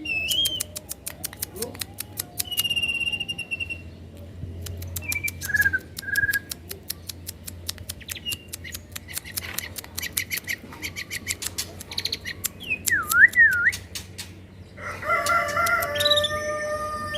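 Songbirds chirping and whistling: fast runs of sharp chips, short whistled notes and swooping glides. Near the end comes a longer held call made of several tones.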